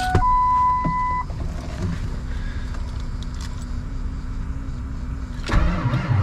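A dashboard chime beeps once for about a second as the key is turned on. Near the end the starter kicks in and slowly cranks the cold-soaked Ford 7.3 Power Stroke V8 diesel in deep frost, with an even, labouring rhythm and no start.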